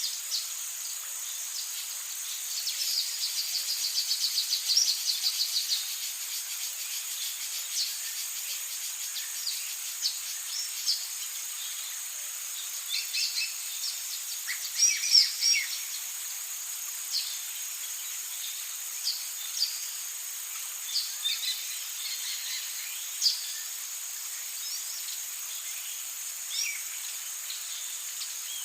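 Amazon rainforest ambience: a steady high-pitched insect drone with bird calls scattered over it. A fast trill comes about three seconds in, and a cluster of louder calls about halfway through.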